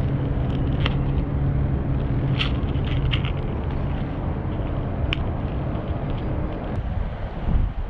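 A steady low engine hum that fades out after about six seconds, with a few short light clicks.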